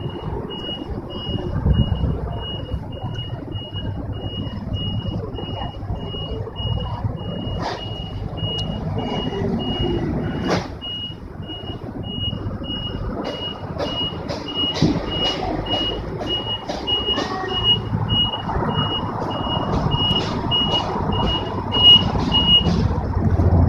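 Automatic car wash machine's electronic warning beeper, one high beep repeating about twice a second and stopping near the end, over the machine's running noise with a few sharp knocks.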